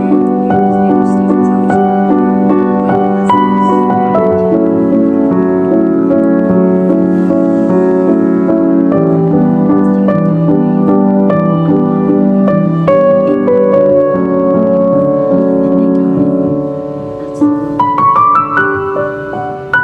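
Piano music, held chords over a low bass note, with an upward run of notes near the end.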